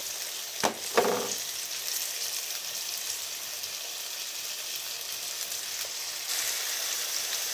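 Powder-dusted cubes of tofu sizzling as they shallow-fry in oil in a frying pan, a steady hiss. Two short knocks come about a second in, and the sizzling gets louder about six seconds in.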